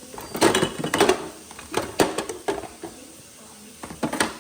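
Clatter and knocks of items being handled in a refrigerator during cleaning: a quick run of knocks in the first second, a few more single knocks around the middle, and another pair near the end.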